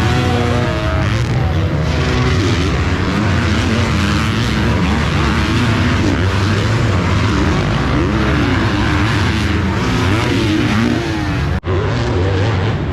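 Several 250cc four-stroke motocross bikes racing on the track, many engines overlapping and revving up and down as riders work the throttle and shift. The sound cuts out for an instant near the end.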